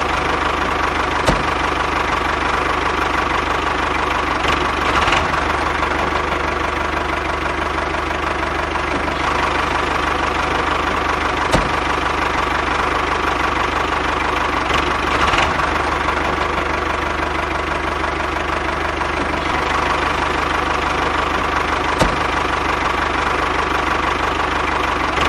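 A small motor running steadily, with a few sharp clicks spaced about ten seconds apart.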